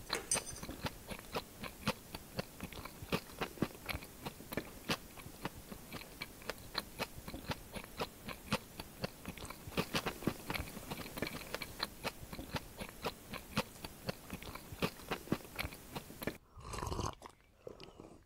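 Close-miked chewing with wet mouth clicks, several a second, as a mouthful of ghugni (spiced yellow-pea curry) is eaten. Near the end the chewing stops and there is one louder swallow of drink from a glass.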